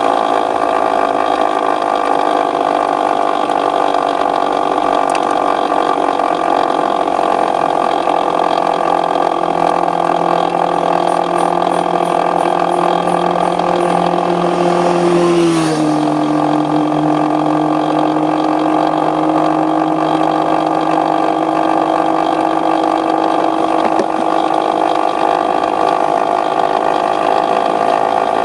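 Aprilia RS125's two-stroke single-cylinder engine running at steady revs, with a low hum that steps down slightly about halfway through.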